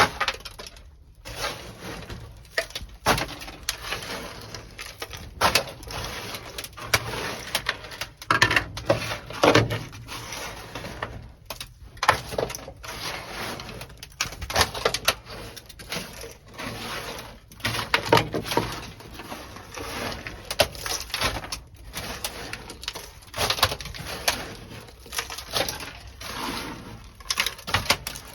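Irregular hollow knocks and short scrapes, several a second at times: a rubber mallet striking dry-ice-frozen sound deadening on a car's sheet-metal floor pan and the brittle pieces being broken and pried loose.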